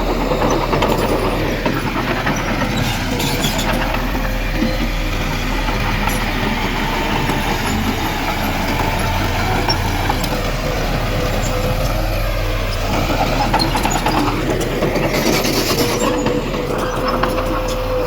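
Heavy diesel earthmoving machinery working: engine running steadily under load with a constant whine, its pitch rising and falling at times, and brief hissing noises about three seconds in and near the end.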